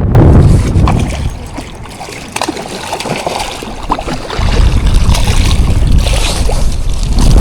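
Gale-force wind buffeting the microphone in heavy gusts, easing for a couple of seconds and then rising again about four seconds in, over water splashing and lapping.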